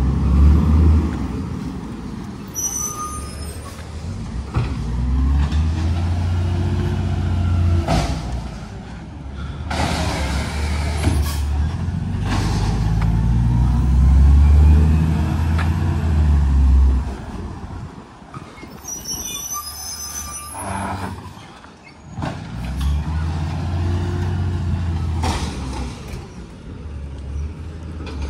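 Garbage truck's diesel engine running and revving up and down in several long surges, with sharp air hisses and a couple of brief high-pitched squeals.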